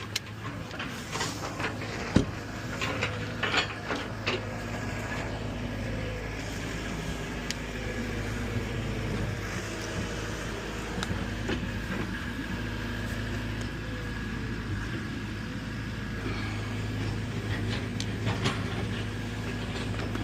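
An engine running steadily, with a scatter of sharp knocks and clatters in the first few seconds.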